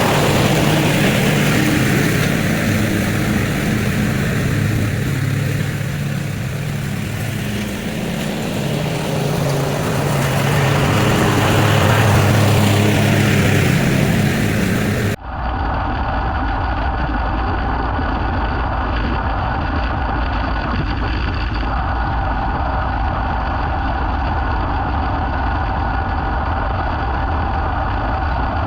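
Engine running, rising and falling in level. About halfway through there is a sudden cut to a steadier, even engine hum.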